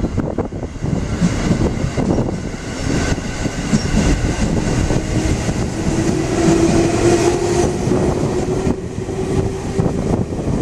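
JR 311 series electric train pulling out and gathering speed, its motors giving a whine that rises in pitch over several seconds, with wheels knocking over rail joints.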